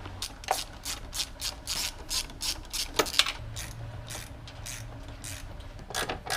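Hand socket ratchet clicking at a steady rate of about three clicks a second as it backs out motor mount bolts. The clicking pauses midway and starts again near the end.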